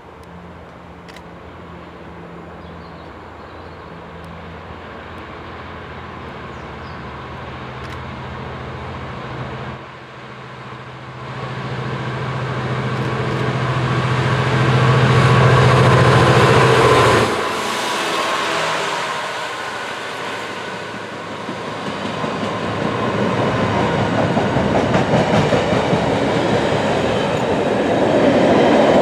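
A diesel-hauled train approaches and passes. The locomotive's engine note grows louder and cuts off sharply as it goes by, and the train rolls on with a steady rumble and clatter that swells again near the end.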